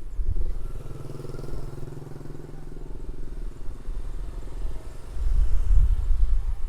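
A small motorcycle engine passes along the road, its hum rising in the first second and fading away by about halfway through. Low wind rumble on the microphone, strongest near the end.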